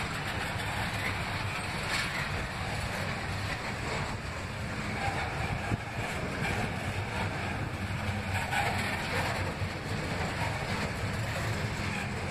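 CSX intermodal freight train's double-stack well cars rolling past on the rails, a steady noise of wheels on track with a few faint clicks.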